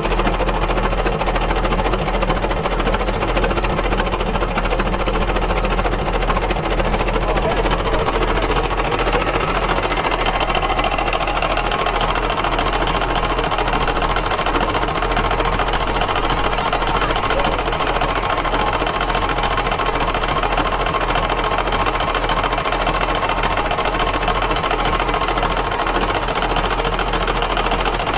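Antique engine running steadily at close range with a fast, even mechanical clatter.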